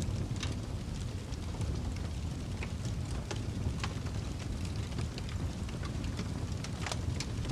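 Wood fire burning in a fireplace: a steady low rumble of flames with frequent irregular sharp crackles and pops of burning wood.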